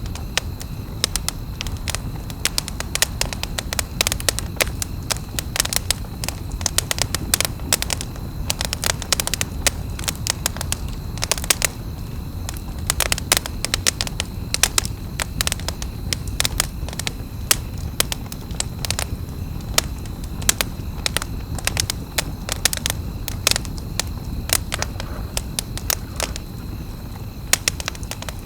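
Wood campfire crackling, with frequent irregular sharp pops and snaps over a steady low rush of the flames.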